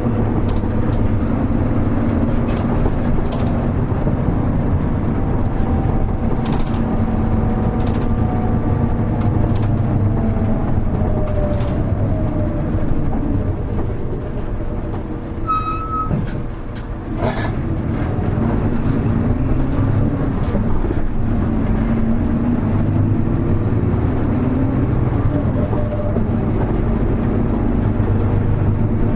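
Cabin sound of a Hino Rainbow HR diesel city bus under way: the engine drones steadily with its pitch gliding up and down as the bus speeds up and eases off. Near the middle it quietens briefly, with a short high beep and then a sharp click.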